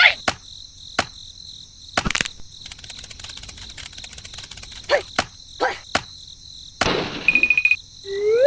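Crickets chirping steadily in a high-pitched chorus, broken by several sharp clicks and knocks. A short rising whistle comes near the end.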